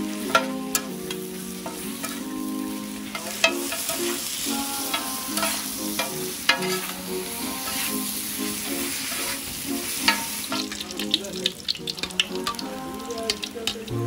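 Chicken frying on a flat iron griddle, sizzling steadily, while metal spatulas clack and scrape against the hot griddle as the meat is tossed. The clacks come thicker and quicker in the last few seconds.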